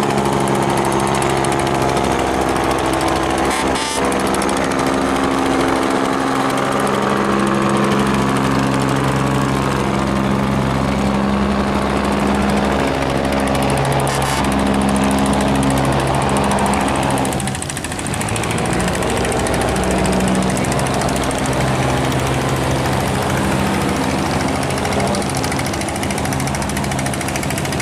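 Small fishing boat's engine running hard under heavy load, pushing upstream against the current through the dam, its pitch shifting a few times and dipping briefly a little past halfway.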